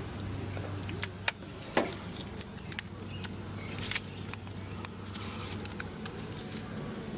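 Scattered sharp clicks and knocks of hand-tool work on the engine, the loudest two together just under two seconds in, over a steady low hum.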